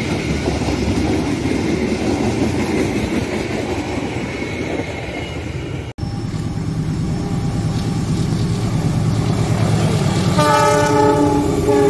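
Passenger train coaches rolling past with steady wheel-on-rail noise. Then a CC206 diesel-electric locomotive approaches with a low engine rumble and sounds its horn, a sustained blast starting about a second and a half before the end.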